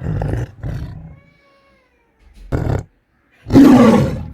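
Lion roaring in several separate calls: a loud, rough roar in the first second, a short one in the middle and another loud one near the end.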